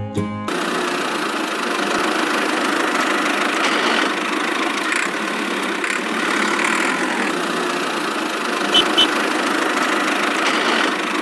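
A small motor running steadily with an even, rough whir, starting about half a second in; two brief clicks come near the end.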